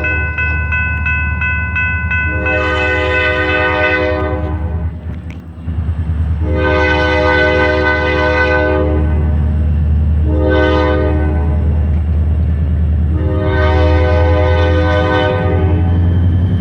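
EMD SD40-2 diesel locomotives sounding their multi-chime air horn in the long, long, short, long grade-crossing pattern, over the steady rumble of their V16 two-stroke engines. A quickly repeating ringing tone, typical of the locomotive bell, sounds in the first two seconds before the horn begins.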